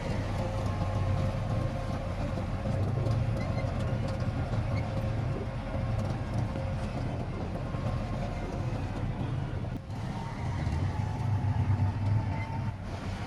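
Heavy diesel engine of a SHANTUI crawler bulldozer running steadily under load, a deep rumble with faint thin whines above it. The sound drops briefly about ten seconds in, then rises again.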